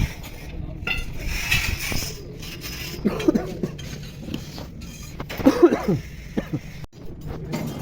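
Metal tools and parts clinking and knocking during tractor gearbox work, with two short pitched sounds about three and five and a half seconds in.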